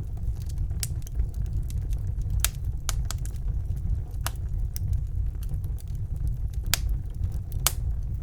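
Wood fire burning in a fireplace: a steady low rumble from the flames with irregular sharp crackles and pops, the loudest about two and a half, four, and near seven and eight seconds in.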